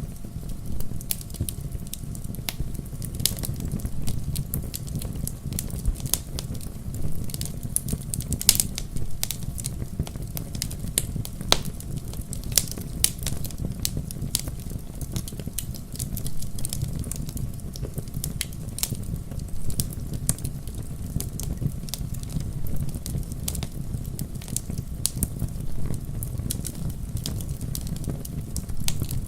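Wood fire burning in a fireplace, with a steady low rumble of the flames and frequent irregular sharp crackles and pops from the logs.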